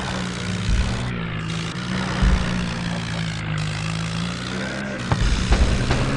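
Tractor engine running steadily under load. From about five seconds in, louder low thumps join it.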